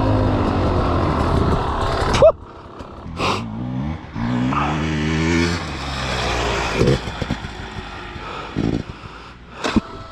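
Dirt bike engine running loud and close, stopping abruptly a little over two seconds in. After that a dirt bike engine is heard more faintly, revving up and falling back, with a few scattered clicks and knocks.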